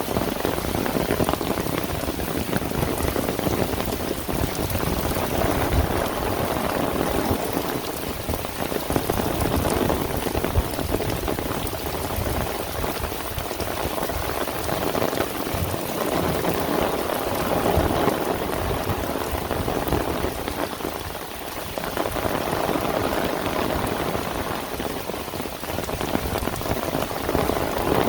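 Heavy rain falling steadily, a dense patter of drops that swells and eases a little every few seconds.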